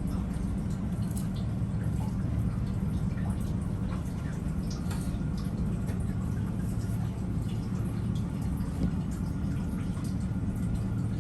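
A steady low hum with scattered faint clicks and light taps.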